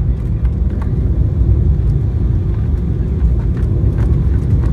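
Steady low rumble inside the cabin of an Embraer 195 jetliner on the ground after landing: engine and rolling noise, with a few faint ticks.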